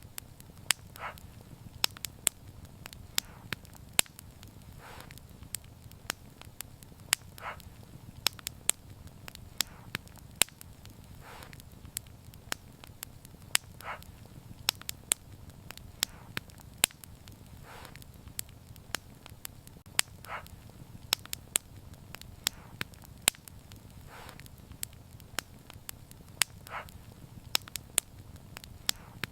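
Wood fire burning, with sharp, irregular crackles and pops over a steady low rumble of the flames. A softer short hiss recurs every few seconds.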